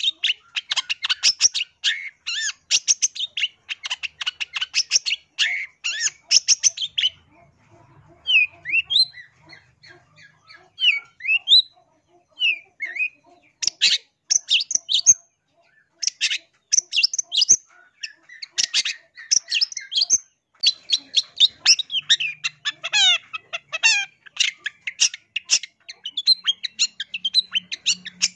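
Long-tailed shrike calling in fast runs of harsh chattering notes. From about 8 to 13 seconds in it drops to a few quieter, thin rising whistles, then the rapid chatter starts again.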